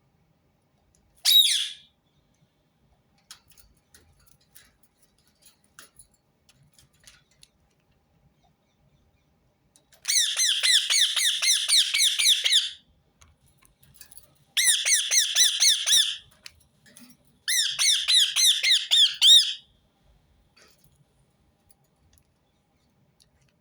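Ring-necked parakeet calling: one short squawk about a second in, then three runs of fast repeated squawks, about five a second, each run lasting two to three seconds.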